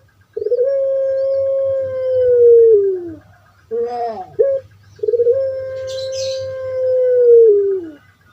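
Puter pelung dove (a domestic Barbary dove, Streptopelia risoria) singing its long drawn call. It gives a held note of about three seconds that drops in pitch at the end, then a short rising-and-falling note, then a second long held note.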